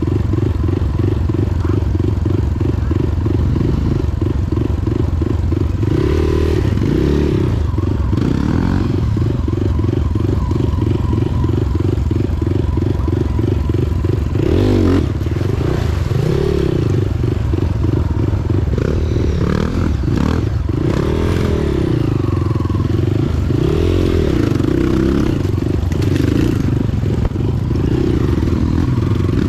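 Motorcycle engine running under way, its note rising and falling repeatedly as the throttle opens and closes.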